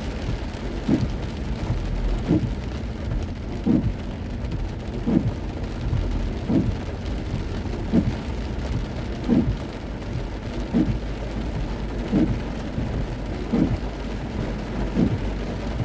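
Heavy rain pelting a moving car, heard from inside the cabin, with the windshield wipers swishing evenly, one stroke about every second and a half.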